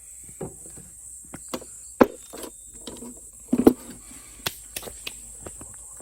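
Scattered knocks and clicks of hard objects being handled and set down, the loudest about two seconds in and a cluster about three and a half seconds in.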